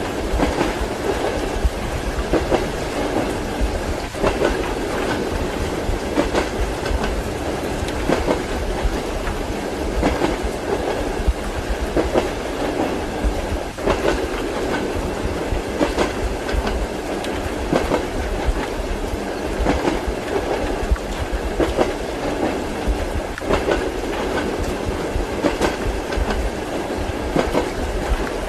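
Passenger train wheels clicking over rail joints, heard from inside a moving carriage. The clicks come in groups about every two seconds over a steady rumble.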